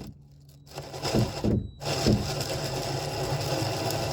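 Power drill spinning a hole saw as it cuts a hole: a few knocks as the saw bites, then a steady motor hum with cutting noise from about two seconds in.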